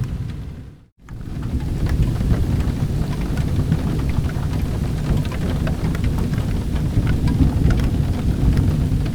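Steady rain with a low rumble of thunder, mixed with the sharp crackles of a fire burning in a fireplace. The sound fades out to silence just before a second in, then fades back up.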